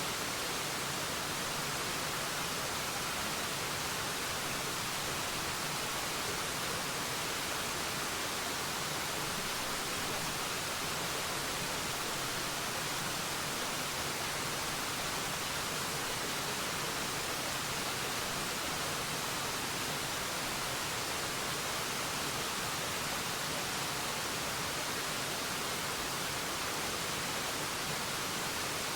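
Forest waterfall: a steady, unbroken rush of falling water, even and hissy with most of its energy in the upper range.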